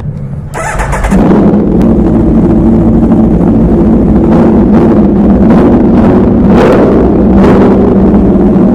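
2017 Aprilia RSV4 RF's V4 engine, breathing through an SC Project S1 Low Position exhaust, being started: a brief crank about half a second in, then it catches and runs at a steady, loud idle.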